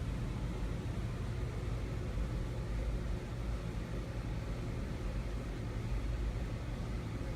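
Black ceiling fan running steadily: an even rush of moving air, strongest in the low end, with a faint motor hum.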